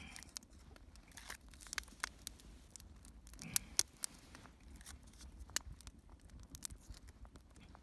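Small kindling fire in the cuts of a Swedish torch log crackling, with irregular sharp snaps; the loudest pair comes about three and a half seconds in. The fire is struggling to take hold.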